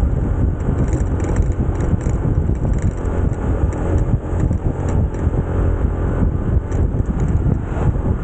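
Motorcycle engine running at riding speed, with wind buffeting the microphone in a steady low rumble.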